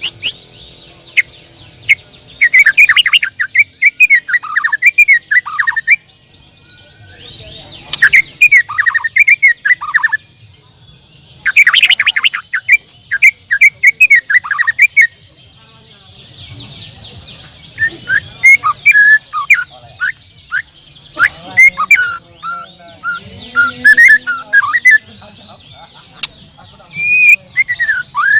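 White-rumped shamas singing in competition: loud bouts of rapid, downward-sweeping whistled phrases lasting a few seconds each, with short pauses between, over a steady high hiss.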